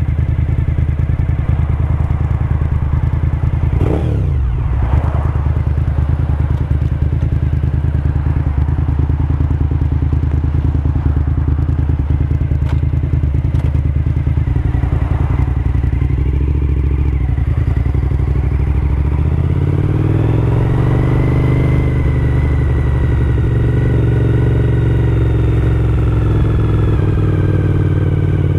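A Suzuki SV1000S's 90-degree V-twin engine runs steadily while the motorcycle is ridden. After about two-thirds of the stretch the revs rise as the bike accelerates, then hold at the higher pitch.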